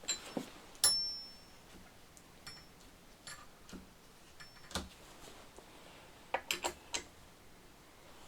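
Scattered metallic clicks and clinks of tools and chainsaw parts being handled. One clink about a second in rings briefly with a high tone, and a quick run of three or four clicks comes a little after six seconds.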